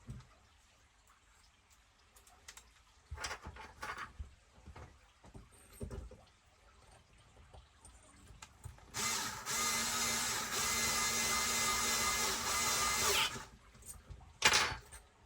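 Cordless electric screwdriver running steadily for about four seconds, driving in a diff-case screw on an RC truck. Before it come light clicks and knocks of small parts being handled, and a sharp click follows near the end.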